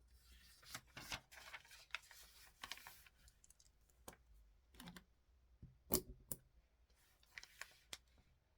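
Faint handling sounds at a desk: rustling and scraping with a string of sharp clicks, the loudest about six seconds in.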